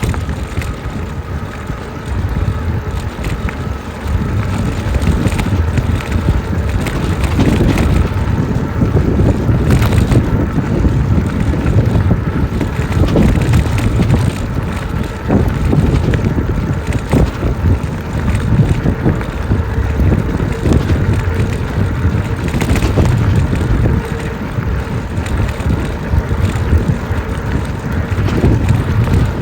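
Wind buffeting the microphone of a camera on a moving e-bike: a steady low rumble, with a few short knocks from the bike going over bumps.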